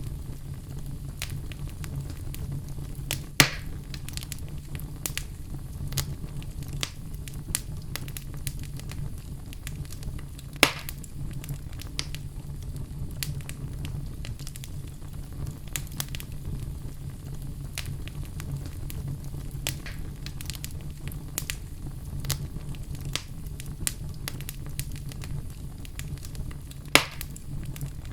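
Wood fire crackling, with a steady low rumble of the flames and frequent sharp pops from the burning logs, three of them louder: about three seconds in, near the middle and near the end.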